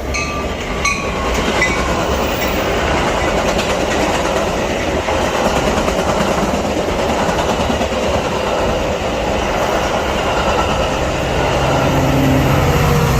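Metra commuter train running past on the BNSF line: a loud, steady rumble and rattle of steel wheels on the rails. A low hum comes up near the end, with a tone that slowly drops in pitch.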